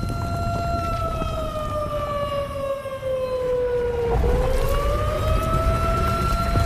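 A siren sounding one long, steady tone that slowly falls in pitch for about three seconds and then rises back to its starting pitch, over a low rumble; it serves as the alarm in an earthquake drill.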